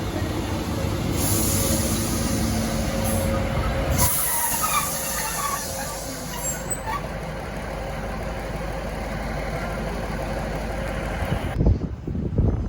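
Train at a station platform with a steady low engine drone and a loud air hiss from about one to six and a half seconds in. Near the end, wind buffets the microphone.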